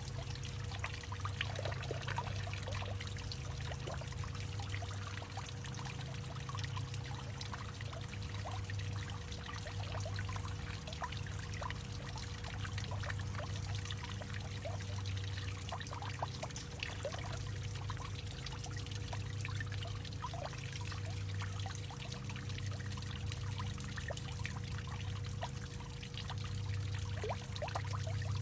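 Water pouring and trickling in a hollowed-out tree: a steady run of small splashes over a low, wavering rumble, with a faint steady hum underneath.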